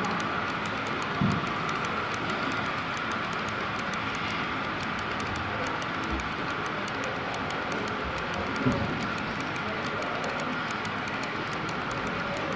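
Model iron ore train running on a layout track: a steady rolling hum of wheels and motor, with two brief knocks, one about a second in and one later.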